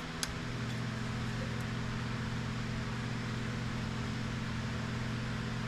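Steady mechanical hum with a low drone, a little stronger from about half a second in, with one light click just after the start.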